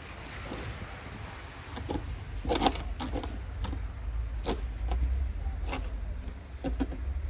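Wind rumbling on the microphone, with a series of about seven short, irregular crunches or scrapes in snow starting about two and a half seconds in.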